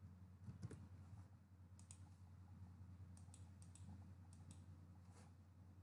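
Near silence: faint room hum with a few scattered soft clicks.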